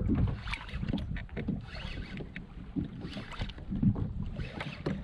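Water lapping and slapping against a kayak hull in irregular splashes, over a steady low rumble of wind on the microphone.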